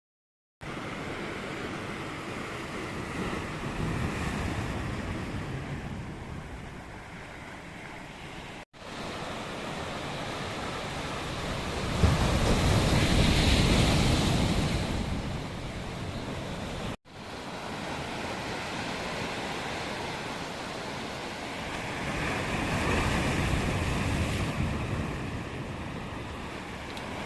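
Sea waves breaking and washing on the shore, surging three times, the loudest wave coming in with a sudden crash about twelve seconds in.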